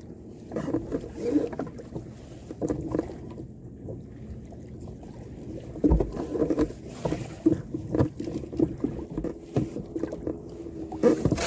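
Sailing canoe under way: water slapping and splashing against the hull in uneven surges, with irregular knocks and some wind on the microphone.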